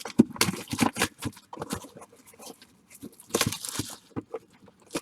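Packaging of a retail box of baseball card packs being torn open and handled: crinkling wrapper and scattered crackles, with a tearing rasp about three and a half seconds in.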